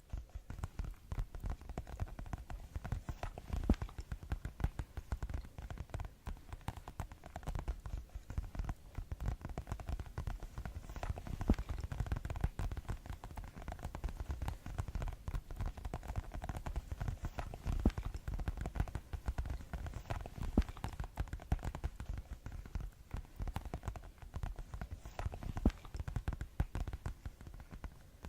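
Fast tapping close to the microphone: rapid, continuous taps with a deep, thudding low end.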